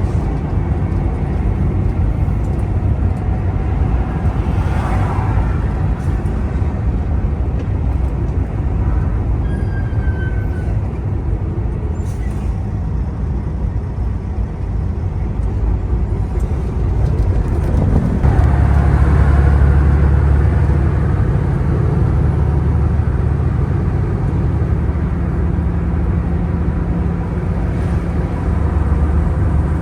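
Semi-truck on the road: a steady engine rumble with road noise. The low rumble grows heavier about 18 seconds in.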